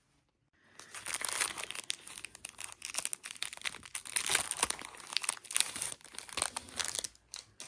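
Crinkling of the plastic wrapping on a pack of double-sided bias tape as it is handled and opened. A dense run of crackles starts just under a second in and stops shortly before the end.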